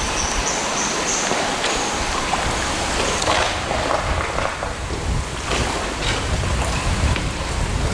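Steady rush of water and wind around a boat on the sea, with a few short knocks in the middle and a deeper rumble building in the second half.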